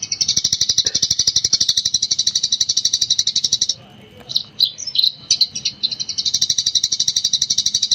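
Eurasian tree sparrow chirping in fast, continuous runs, several sharp chirps a second. The run breaks for a couple of seconds in the middle into a few separate chirps, then picks up again.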